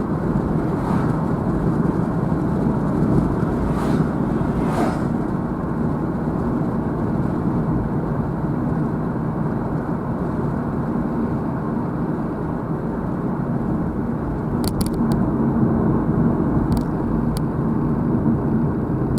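Car driving along, heard from inside: a steady low rumble of road and engine noise, with a few faint ticks near the end.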